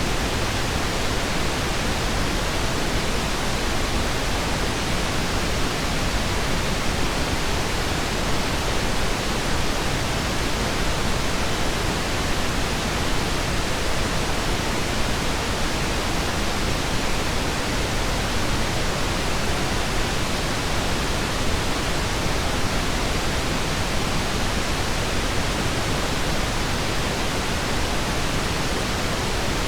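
Steady pink noise: an even, unchanging hiss spread across the whole range, heavier in the lows than white noise.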